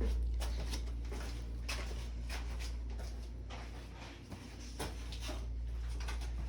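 Scattered irregular clicks and light knocks over a steady low hum.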